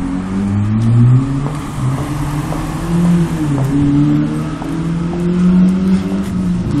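A car engine revving hard, its pitch rising and falling again and again as the car accelerates and eases off.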